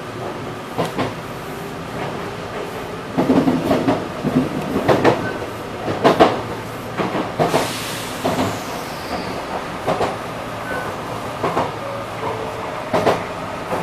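Enshu Railway electric train (set 2007F) running along elevated track, heard from the driver's cab: steady running noise with repeated sharp clacks of the wheels on the rails, louder and more frequent from about three seconds in.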